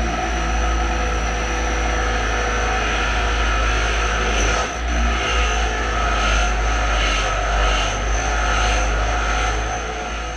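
Electric grinder running steadily with a high whine, grinding down a steel punch; in the second half the grinding noise swells and eases in a regular rhythm, about twice a second, as the punch is worked against the wheel.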